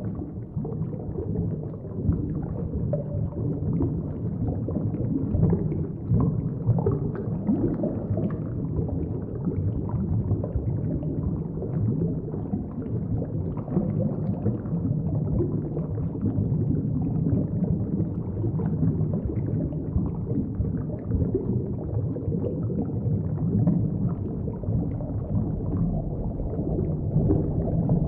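Underwater ambience: a steady low rumble with gurgling, bubbling water.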